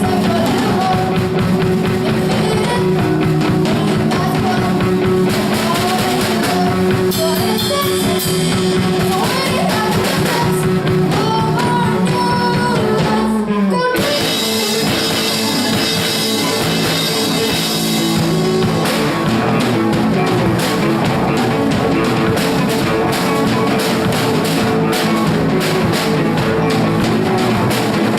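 Rock song played by a band on drum kit and guitar, with singing. About halfway through, a falling slide leads into a new, fuller section.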